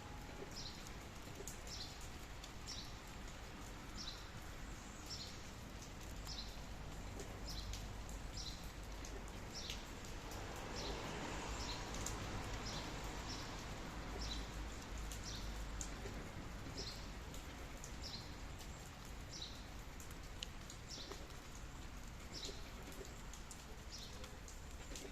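A bird repeating a short, high chirp a little more than once a second, over a steady hiss of rain that swells slightly midway.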